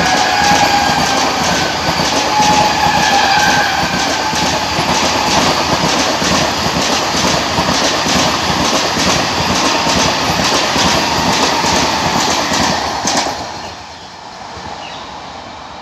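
Train 18 electric multiple-unit trainset passing close at speed: steady rushing rail noise with rapid clacks of the wheels over the rail joints, and a horn note falling slightly in pitch and dying away over the first few seconds. About thirteen seconds in the sound cuts off abruptly to a much quieter, distant rumble of the train.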